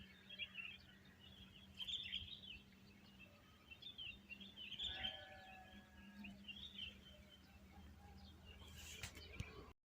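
Faint small-bird chirps and twitters in short scattered bursts, with a couple of brief whistled notes about halfway through, over a faint low steady hum.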